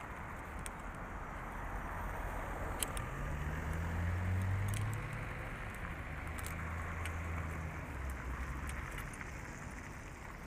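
A steady city background in which a motor vehicle's low engine hum swells about three seconds in and fades away near the end, with a few light metallic clinks, typical of climbing hardware on a rope.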